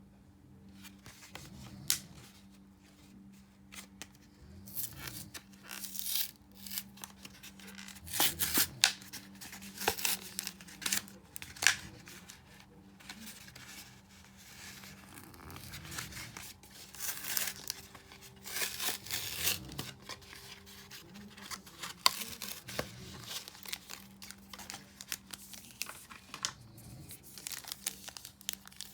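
Foil wrappers of Yu-Gi-Oh! trading card booster packs being torn open and crinkled by hand, in irregular sharp rips and crackles. A faint steady hum runs underneath.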